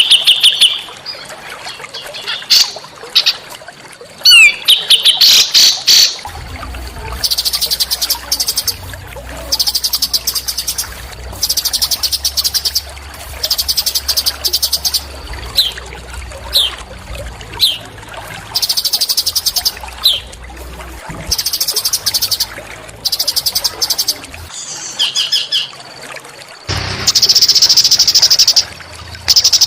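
Small songbirds calling in rapid, buzzy chattering phrases about a second long, repeated every second or two, with a few short falling whistles between. The chatter gets louder near the end.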